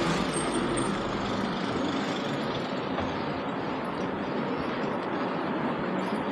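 Steady city street traffic noise: vehicles running close by, with a low engine hum under it. A brief faint high whistle sounds in the first second.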